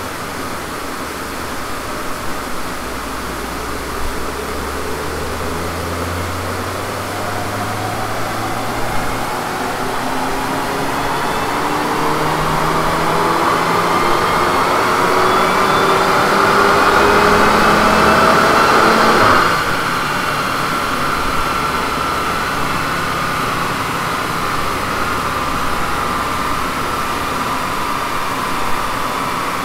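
Car engine pulling at full load on a rolling-road dyno, its pitch rising steadily for about 19 seconds as the power sweep runs. About 19 seconds in the driver lifts off, cutting the engine note suddenly. Then the dyno rollers and drivetrain whine, slowly falling in pitch, as the car coasts down in gear with the clutch engaged for the transmission-loss reading.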